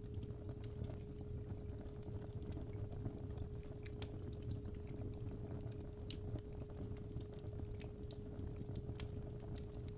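Steady 417 Hz pure tone held throughout, over fireplace fire white noise: a low rumble of burning with irregular sharp crackles and pops of the wood.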